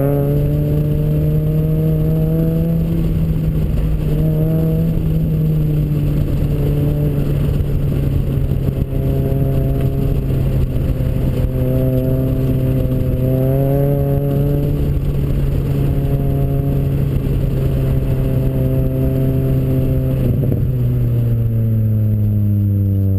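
Toyota Celica's engine running hard at speed on a race circuit, its note climbing and holding as the car accelerates, then falling over the last few seconds as it slows.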